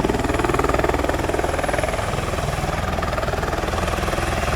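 Medical helicopter coming in to land, its rotor blades chopping in a rapid, even beat over a steady low engine drone.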